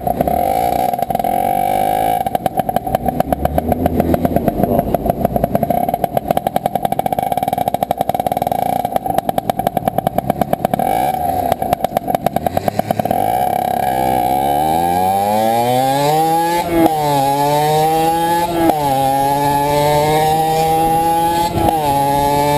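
CPI SM 50 supermoto's 50cc two-stroke engine running loud with its rear muffler removed. For the first half or more it runs with a choppy, rapidly pulsing sound. After that it revs up, the pitch climbing and then dropping back at each of three gear changes.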